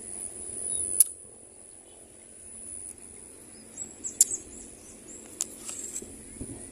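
Outdoor evening ambience: a steady high-pitched insect drone, with birds chirping several times in the middle. Two sharp clicks stand out, one about a second in and one about four seconds in.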